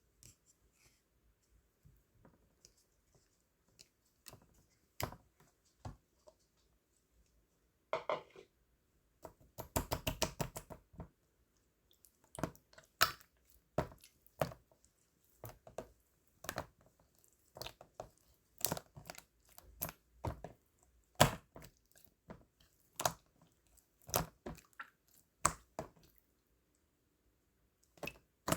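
Scattered sharp clicks and taps of small objects being handled, with a quick run of rattling clicks about ten seconds in.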